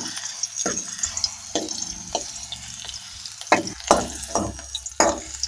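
Pirandai (veldt grape) stems frying in hot groundnut oil in a metal kadai, with a steady sizzle and small crackles. A steel spoon stirs them and knocks and scrapes against the pan several times.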